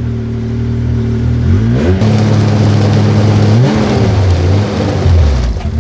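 Snowmobile engine idling, then revved up about one and a half seconds in, held high, dropped and revved again before falling back to idle near the end. The back is jacked up so the track spins freely, throwing out slush packed in underneath.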